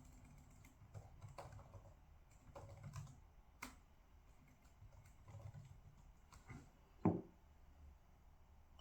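Faint, irregular typing on a computer keyboard, with one louder thump about seven seconds in.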